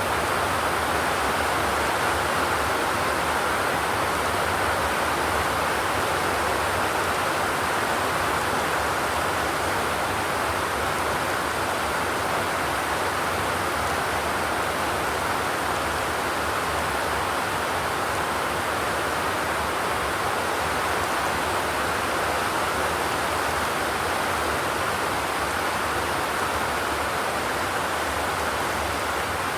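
Steady rain falling on a corrugated zinc roof, an even hiss without thunder.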